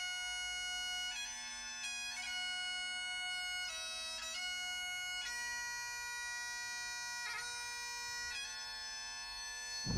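Bagpipe music: a steady drone under a chanter melody that steps from note to note every second or so.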